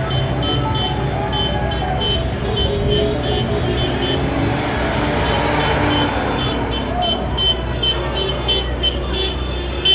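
Tractor engines running as the tractors of a road run drive past, with a swell of engine and road noise around the middle. Electronic dance music with a steady beat plays over it.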